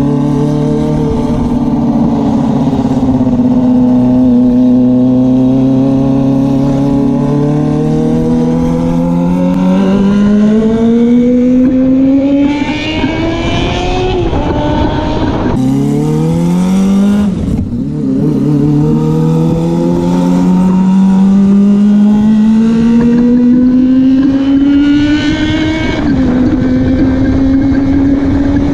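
Motorcycle engine accelerating under load, its pitch climbing steadily in each gear and dropping back at gear changes about twelve, sixteen and twenty-six seconds in.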